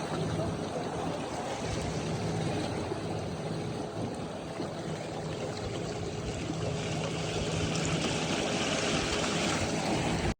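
Tour boat's motor running steadily under the rush of water along the hull, the water sound growing brighter in the last few seconds.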